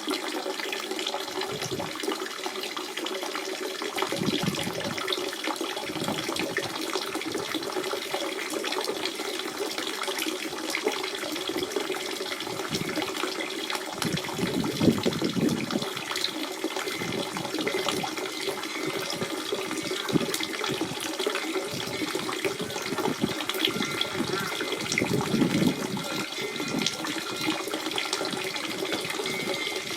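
Natural spring water running and splashing steadily, a continuous rush with gurgling swells now and then.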